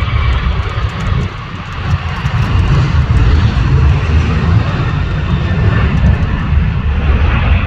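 Airplane taking off, its engines a loud, deep rumble that builds about a second in and then holds strong.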